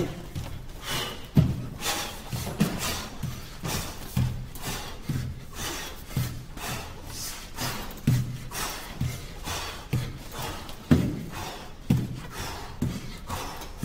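Muay Thai kicks and punches landing in a steady run of thuds, about one to two a second, with a few harder strikes standing out.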